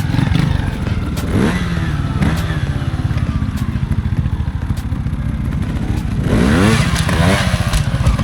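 Trials motorcycle engine running at low revs with a steady pulse, revved up sharply about a second in and again, longer and louder, around six to seven seconds in.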